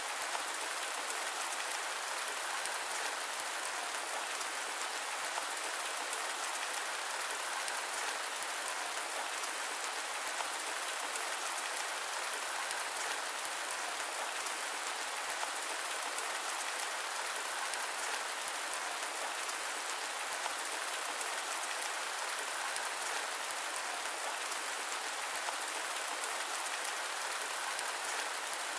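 Steady rain: a dense, even hiss of many small drops with fine patter, unchanging throughout.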